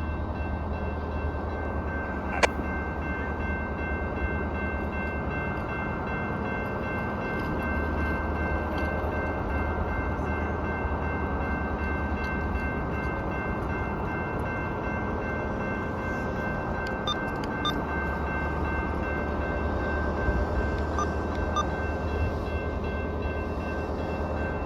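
Amtrak ALC-42 Charger locomotive, with its Cummins QSK95 diesel, idling while standing still: a steady low engine drone with several faint, constant high tones above it. There is one sharp click about two and a half seconds in.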